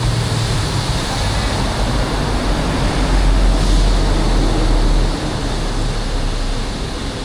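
Steady rushing wind noise on the microphone of a moving e-bike, mixed with street traffic. A deeper rumble swells from about three to five seconds in.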